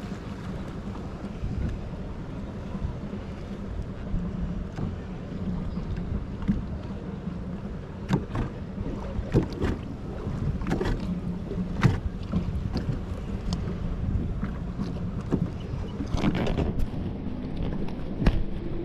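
Watercraft engine running steadily, with wind rushing on the microphone and several sharp knocks scattered through the middle and near the end.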